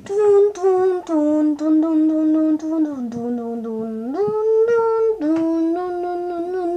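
A person humming loudly in long held notes, the pitch stepping down over the first few seconds, jumping up about four seconds in, then stepping down again.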